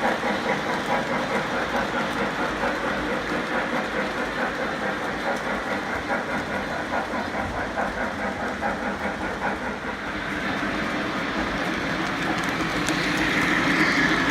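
Model train running on its track, its wheels clicking over the rail joints in a steady rhythm of a few beats a second, growing louder near the end as it comes closer.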